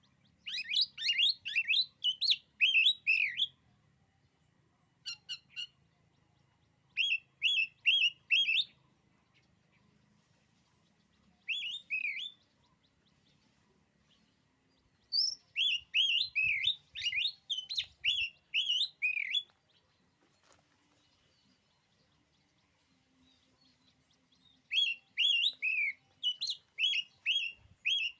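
Oriental magpie-robin (kacer) singing: about six bursts of quick, clear, downward-sliding whistled notes, separated by pauses of a few seconds.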